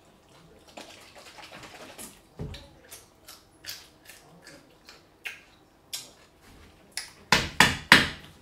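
Crisp crunching of a pickle being bitten and chewed close to the microphone for ASMR: a run of short crunches, with a few louder ones near the end.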